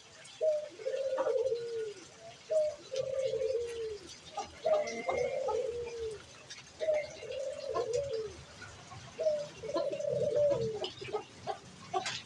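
Pigeon cooing: five repeated coos, each a short note and then a longer wavering note that falls in pitch.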